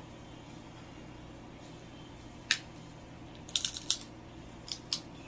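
Seafood shells being handled while eating, giving short sharp clicks and cracks: one about halfway through, a quick cluster of several a second later, and two more near the end.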